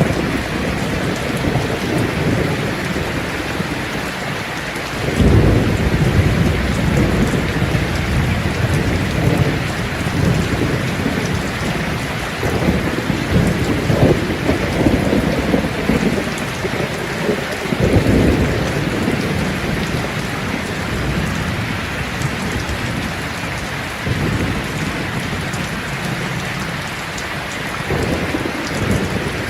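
Steady rain falling, with low rolling thunder rumbling in and dying away several times, the strongest roll starting about five seconds in.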